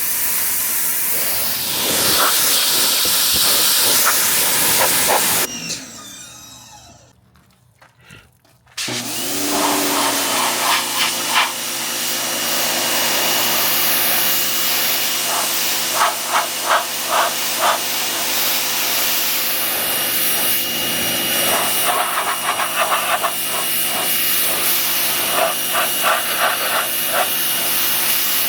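Pressure washer spraying with a steady hiss. About five seconds in it cuts off for roughly three seconds. It then starts again with the pump's steady hum under the spray, and the jet spatters against the car's bodywork.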